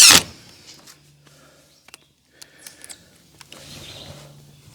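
Cordless screw gun driving a screw, cutting off just after the start. Then scattered small clicks and knocks.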